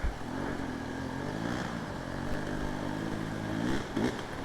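Dirt bike engine running at low revs, its pitch rising and falling with the throttle, with a short rev-up near the end.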